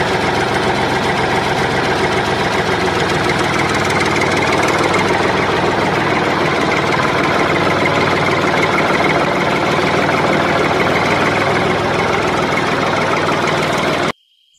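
Tractor engine running steadily at an even pace, cutting off abruptly near the end.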